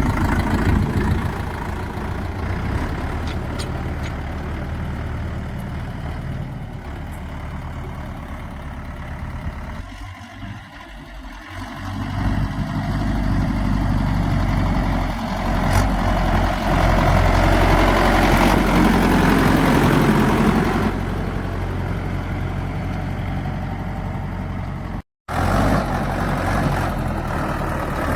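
Mahindra tractor diesel engine running with a steady low note, dipping about ten seconds in, then louder from about twelve to twenty-one seconds. The sound cuts out for an instant near the end.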